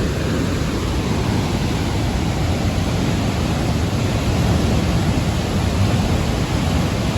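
Steady rushing roar of a large waterfall, an even, unbroken noise.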